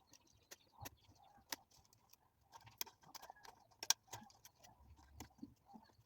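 Irregular small clicks and taps, about a dozen, unevenly spaced, the sharpest about four seconds in.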